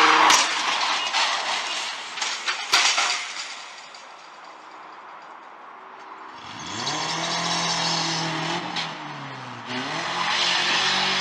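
Car engine revving, its pitch rising and falling and dipping once before climbing again, from about six seconds in; before that, a loud noisy rush with two sharp knocks in the first three seconds that fades away.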